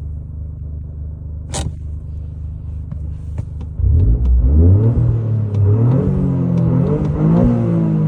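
Toyota GR Corolla's turbocharged 1.6-litre three-cylinder running through a Magnaflow Neo Series exhaust: a steady low idle with one sharp click about one and a half seconds in. About four seconds in it gets much louder, and the engine note rises and falls several times as the revs climb and drop.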